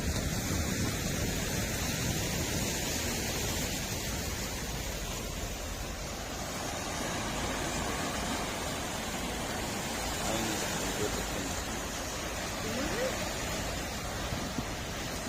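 Steady rush of sea waves and wind at the shore, with a few faint, distant voices.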